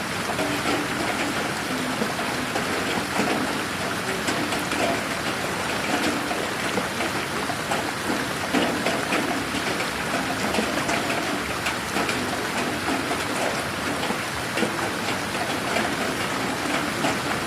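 Steady rain falling on a garden: a dense, even hiss with many separate drops ticking on surfaces.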